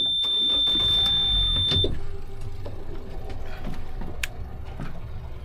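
A steady high-pitched electronic beep, held for about two seconds and then cut off, over the low steady running of the boat's motor.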